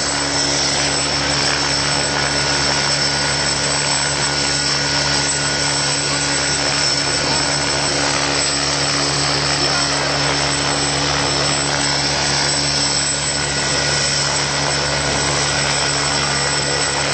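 Helicopter running with a steady, unbroken drone and a constant high whine over it.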